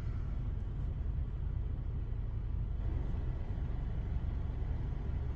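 Idling vehicle engine: a steady low rumble with no distinct events.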